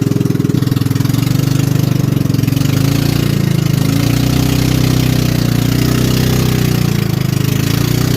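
Motor of a small river canoe running steadily, its pitch wavering slightly a few seconds in.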